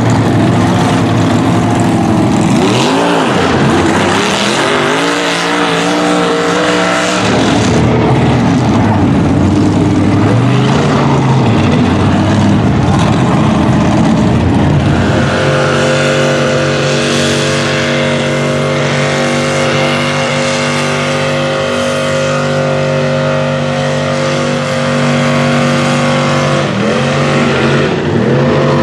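Mud truck engines running hard, revving up and down, then held at high, steady revs from about halfway through, with a brief dip near the end.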